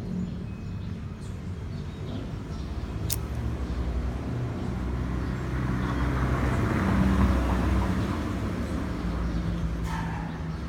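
A motor vehicle passing by: a low rumble that swells to a peak about seven seconds in and then fades. A single sharp click comes about three seconds in.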